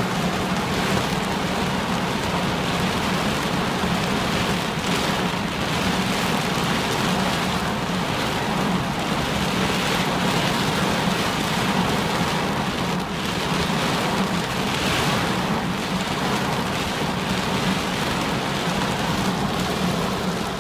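Heavy downpour drumming steadily and densely on a car's roof and body, heard from inside the car.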